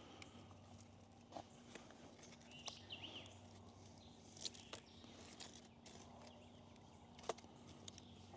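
Near silence: quiet outdoor ambience with a few faint, scattered clicks and a brief faint chirp.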